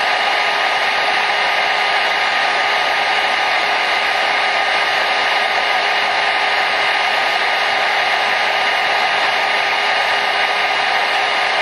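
Hair dryer running steadily: an even, unchanging blowing hiss with a faint steady motor whine in it.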